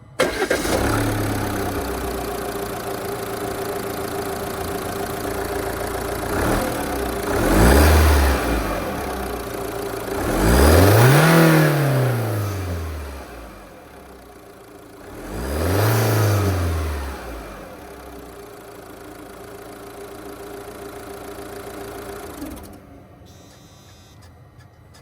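Jeep Commander 2.0-litre turbodiesel engine starting, idling, and revved three times, the middle rev highest and longest, then switched off near the end.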